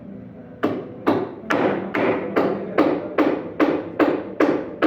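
Hammer blows in a steady, even rhythm: about a dozen strikes at roughly two and a half a second, starting about half a second in, as in a carpenter's hammering.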